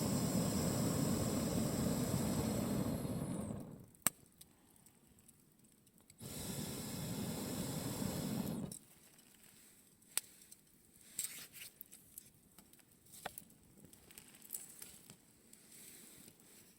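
A campfire with a pressurised jet hissing loudly in two spells, the second starting about six seconds in and cutting off abruptly near nine seconds. Between and after the hiss, the fire crackles and pops quietly.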